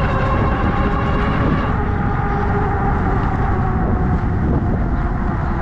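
Electric-motor two-wheeler riding steadily: heavy wind rumble on the microphone, with a faint steady whine from the motor and tyres.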